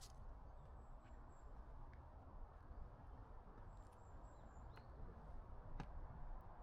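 Faint forest ambience: a steady low rumble with thin, high bird calls twice and a few soft clicks.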